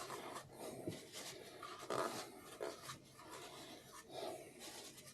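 Faint, irregular rubbing and scraping with a few light knocks, from hand work on a diesel cylinder head, over a faint steady hum.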